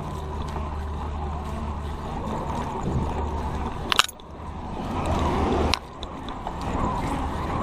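Roadside outdoor noise: a steady low rumble of traffic and wind. About four seconds in there is a sharp click, then a swell of noise that cuts off suddenly near six seconds.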